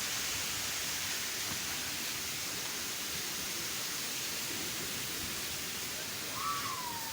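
Waterfall: a steady rush of falling water, with a brief falling cry near the end.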